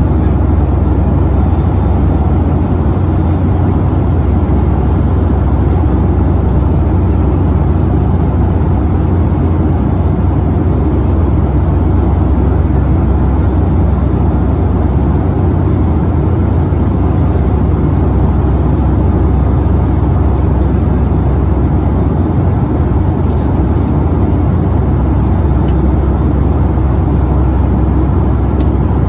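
Steady cabin noise of a Boeing 757-200 in flight: an even, low drone of engines and airflow, heaviest in the bass and unchanging throughout.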